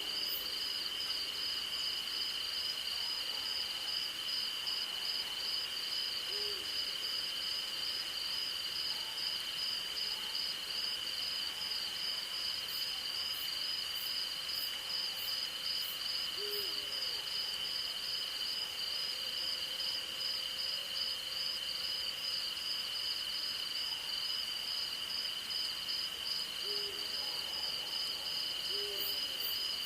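An owl hooting: about five short, low hoots spaced several seconds apart, two of them close together near the end. Beneath them runs a steady night chorus of crickets and other insects, one high even trill and one higher pulsing one.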